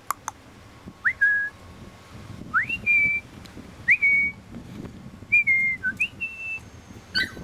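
Human whistling to call a puppy over: about five short whistled notes, about a second apart, most sweeping up and then held briefly.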